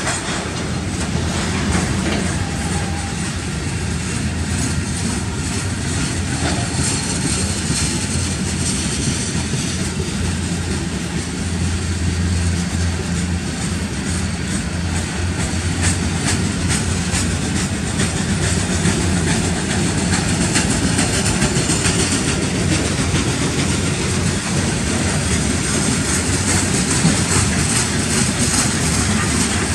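Freight cars of a mixed manifest train rolling steadily past: the continuous rumble and rattle of steel wheels on rail, with light clicking from the wheels running through.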